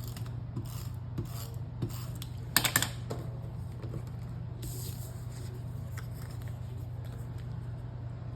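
Paper scraps being handled and rubbed down onto a journal spine while glued and taped: soft taps and rustles, with a short, louder crackle about two and a half seconds in, over a steady low hum.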